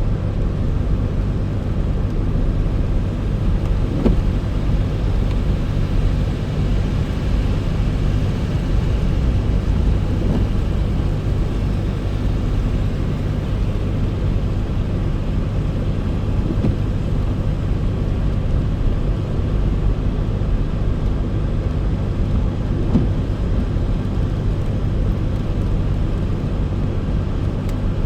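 Car driving at a steady pace: an even, continuous rumble of engine and road noise, with a couple of faint knocks.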